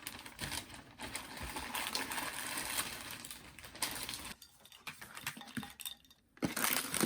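Cutlery clinking and scraping on dishes in a run of small irregular clicks, with two short lulls near the end.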